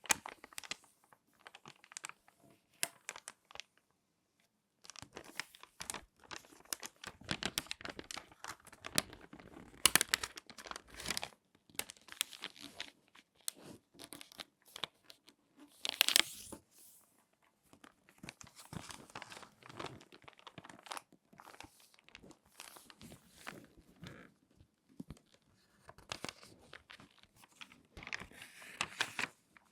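Glossy magazine paper being handled and folded, crinkling and crackling in irregular bursts with short pauses in between, with a sharper, louder crackle about halfway through and another flurry near the end.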